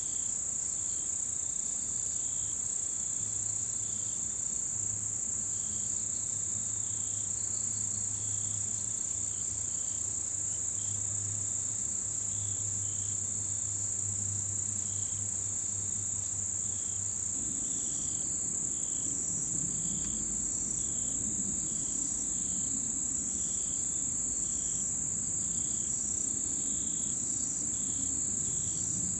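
Autumn insects calling: one high trill runs steady and unbroken, while a second insect sings short, evenly spaced pulses at a lower pitch. A little over halfway through, a low rumble joins them.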